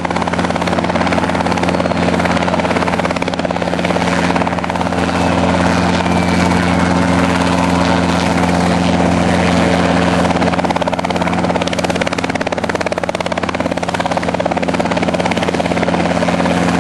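Robinson R22 Beta II helicopter running, its engine and rotors making a loud, steady drone that holds the same pitch throughout.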